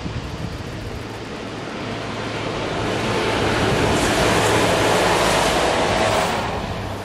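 Diesel multiple unit passenger train passing close by: engine and wheel noise swell to a peak about four to six seconds in, then drop away quickly as it goes past.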